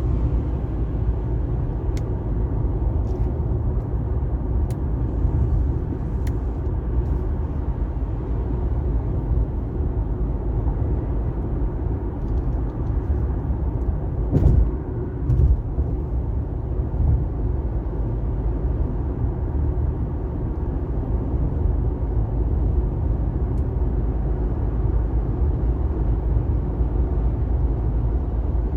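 Car driving at highway speed: a steady rumble of road and tyre noise, with a couple of brief louder bumps about halfway through.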